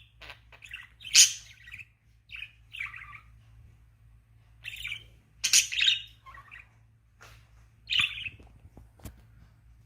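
Pet budgerigar chirping in short separate calls a second or two apart, the loudest about a second in.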